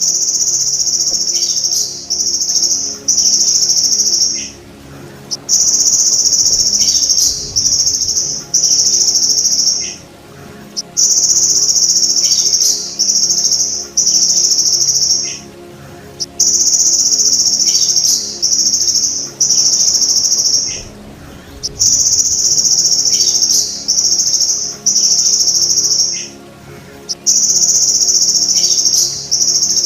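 Belalang emas (golden grasshopper) call, played as a repeating loop of high buzzing trills. Each phrase is one long trill followed by two or three shorter ones and a brief pause, and it comes round about every five and a half seconds.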